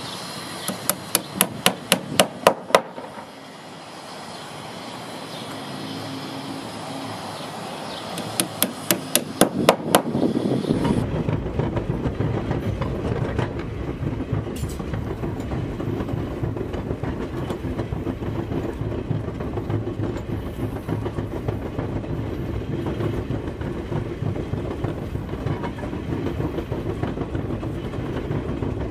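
Railroad car rolling on track. Two quick runs of sharp clicks, wheels crossing rail joints, come near the start and again around nine seconds in. A little before eleven seconds it becomes a steady rumble with a light clickety-clack.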